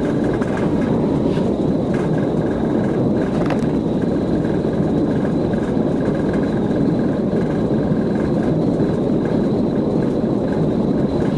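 Steady cabin noise of a vehicle in motion during a police pursuit: a constant rumble and rush of engine, road and wind noise, with a faint thin high whine over it.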